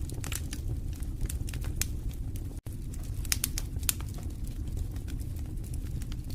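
Wood fire in a fireplace crackling: a steady low rumble of flames with scattered sharp pops and snaps. There is a split-second dropout about two and a half seconds in.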